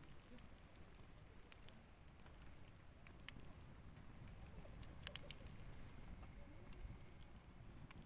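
Wood campfire crackling faintly, with scattered sharp pops over a low rumble. A short high tone repeats about once a second behind it.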